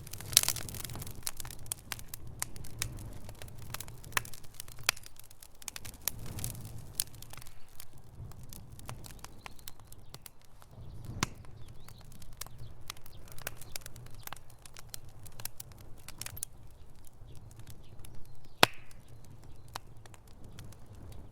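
Wood fire in a fireplace crackling: irregular sharp pops and snaps, with a louder pop about half a second in and another near the end, over a low steady rumble of the burning fire.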